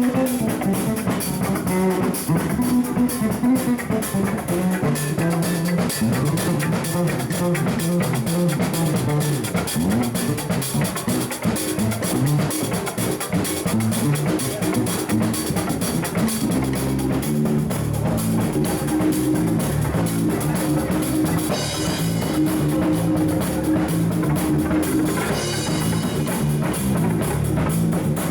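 A live band jamming on drum kit and electric guitar, with bass notes, a steady beat running throughout.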